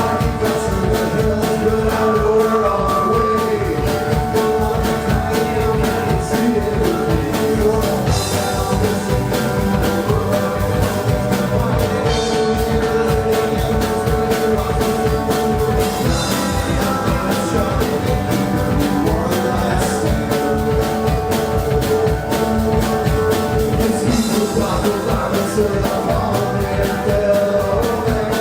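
Live rock band playing a song at full volume: a steady drum beat under sustained, held instrument tones.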